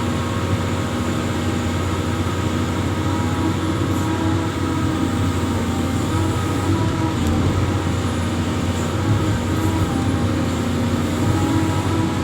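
Amphibious excavator's diesel engine running steadily, with a constant low hum and several steady higher tones.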